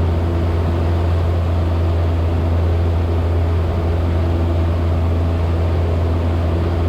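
Cessna 172's piston engine and propeller running steadily in flight at low level: an even drone with a strong low hum.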